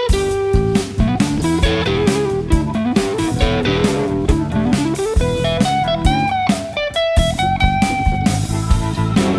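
Jazz-rock band playing: a lead melody of held and sliding notes over electric guitar, bass and a drum kit keeping a steady beat.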